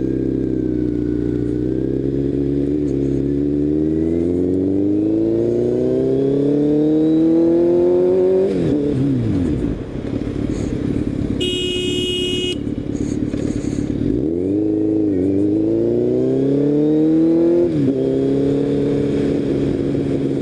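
Motorcycle engine pulling steadily up through the revs, then falling away sharply as the rider brakes hard, the rear wheel briefly locking. About eleven seconds in the motorcycle's horn honks once for about a second; the engine then revs up again, drops with a gear change near the end and settles into a steady run.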